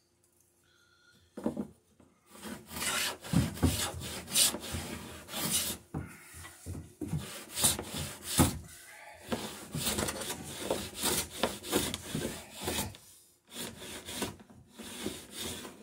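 Hand tool working a wooden boat rail in repeated, irregular rubbing and rasping strokes, starting about a second and a half in and pausing briefly near the end.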